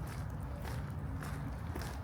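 Walking footsteps, about two a second, over a steady low rumble of city background noise.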